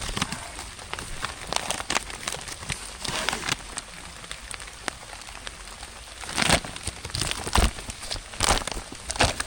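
Rain pattering steadily, with scattered sharp crackling taps and a louder patch of rustling about six seconds in.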